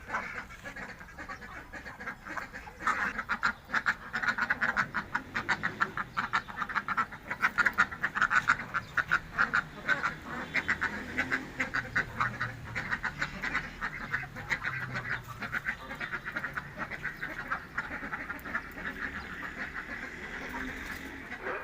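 A flock of domestic ducks quacking and chattering in a dense, rapid stream of calls, picking up a few seconds in.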